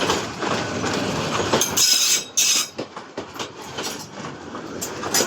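Train wheels clattering rapidly over rail joints and points as the train crosses from one track to another. About two seconds in come two short, shrill wheel squeals.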